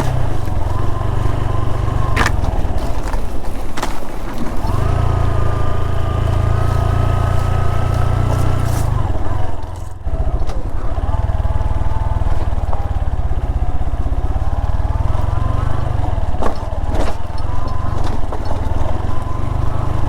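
Motorcycle engine running and revving on a steep, rough hill road, its pitch rising, holding and falling, with a brief drop about halfway through. A deep wind rumble on the microphone and a few sharp knocks accompany it.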